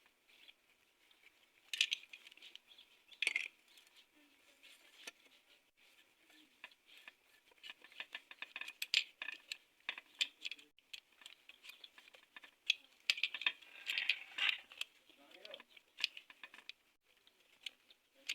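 Light clicks and clinks of small metal engine parts being handled and fitted by hand during motorcycle engine assembly. There are two louder clicks about two and three seconds in, and then a run of quick small clicks from about eight seconds in.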